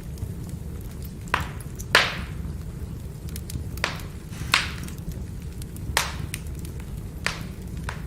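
Wood fire burning: a steady low rumble with sharp crackles and about six louder pops of the firewood, the loudest about two seconds in.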